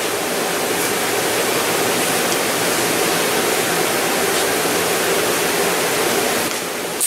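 Steady rushing noise with a faint low hum, and a few faint light clicks.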